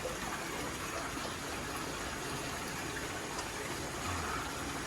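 Steady rushing of water from an aquarium's filtration and circulation running in a large fish tank.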